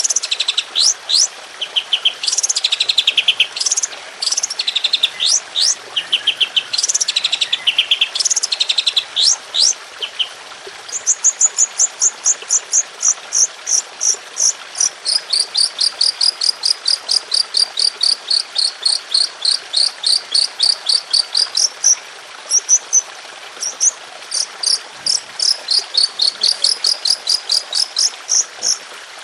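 Songbird singing a long, dense run of rapid-fire phrases: first repeated buzzy trills mixed with fast downward whistled sweeps, then about ten seconds in a quick series of high piercing notes at about four a second, alternating between two pitches, over a steady background hiss.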